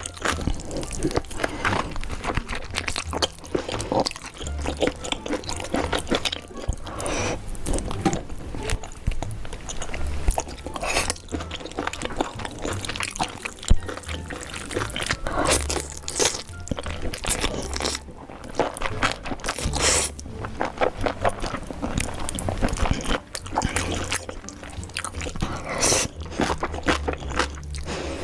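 Close-miked eating sounds from spicy food: crunchy bites and wet chewing, many short crackles one after another, over background music with a steady bass line.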